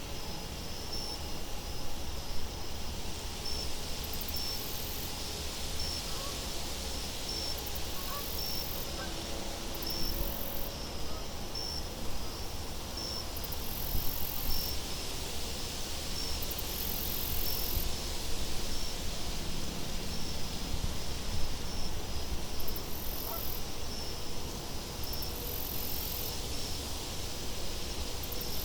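Outdoor night ambience of wind blowing steadily, with a low rushing rumble and soft rustle, while an insect chirps in short high pips about once a second throughout.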